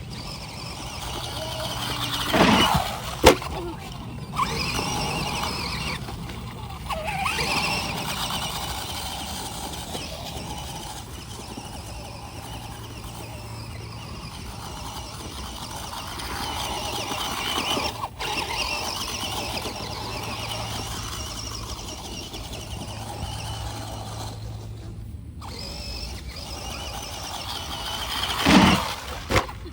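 Small electric RC cars driving, their motors whining and tyres hissing on the ground, the whine swelling and fading as they speed up and slow down. A couple of sharp knocks about three seconds in, and another loud short sound near the end.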